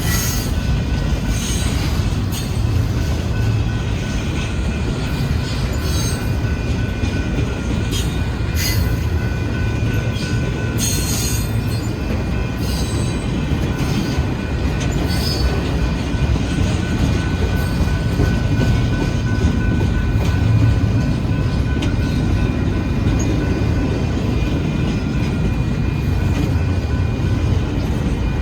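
Freight cars of a Union Pacific intermodal train rolling past with a steady low rumble and a faint, steady wheel squeal. Short sharp squeaks and clicks from the wheels come through the first half.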